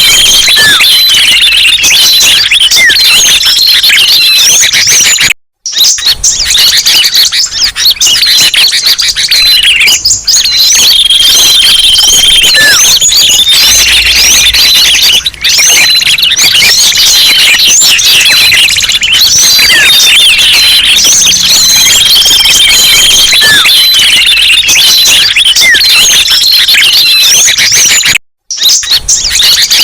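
Bird-lure recording of many small songbirds chirping and twittering at once in a dense, noisy chorus, with a held whistle and a falling call recurring about every ten seconds as the recording loops. It cuts out briefly twice, about five seconds in and near the end.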